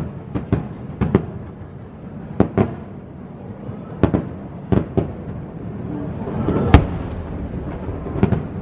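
Aerial fireworks shells bursting: an uneven series of sharp bangs, several in quick pairs, with a low rumble between them and the loudest bang a little past the middle.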